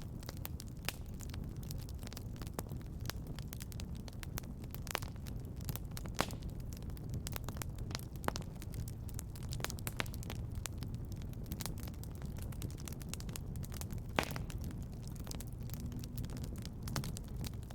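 Wood fire crackling in a fireplace: irregular crackles and sharper pops over a steady low rumble, with one louder pop about fourteen seconds in.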